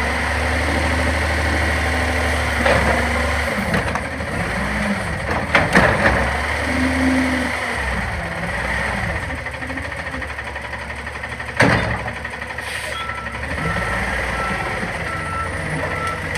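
CNG front-loader garbage truck running, its engine revving up and down in slow swells as the hydraulics work. A few loud metal clunks come about three, six and twelve seconds in. Near the end the reversing beeper starts beeping steadily.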